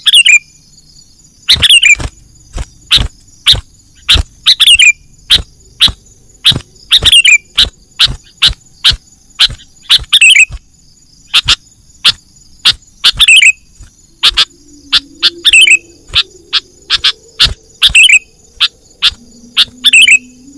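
Sooty-headed bulbul (kutilang) calling over and over: short, very loud notes at irregular spacing, about one or two a second, several with a quick downward slur. A steady high insect drone runs underneath.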